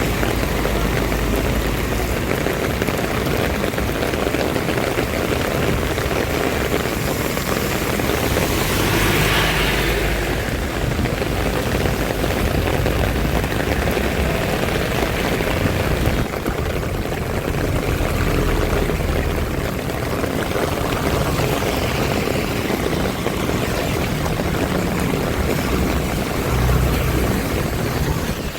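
Steady rumble and hiss of a moving road vehicle, engine and road noise running continuously.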